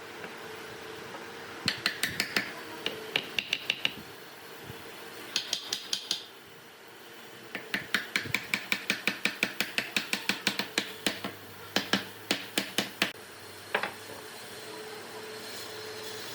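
Quick runs of sharp tool taps, about four or five a second, with a slight metallic ring. They come in three bursts, the longest about five seconds, then a single tap near the end, over a faint steady hum.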